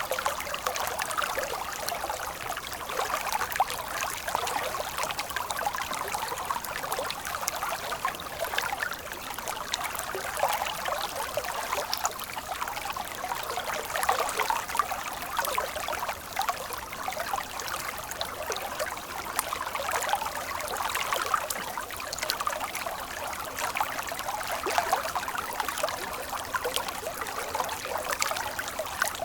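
Stream water running and trickling steadily, with many small splashes and no deep rumble.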